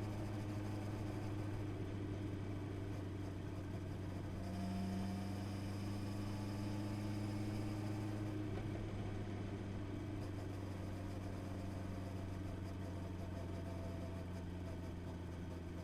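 Honda CB650R's inline four-cylinder engine running steadily at an even engine speed, its tone shifting slightly about four and a half seconds in.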